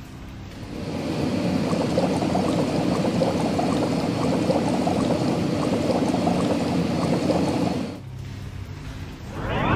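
Cartoon car-wash water sound effect: liquid pouring and fizzing with a dense crackle of tiny bubbly ticks for about seven seconds. It is followed near the end by a quick rising sweep.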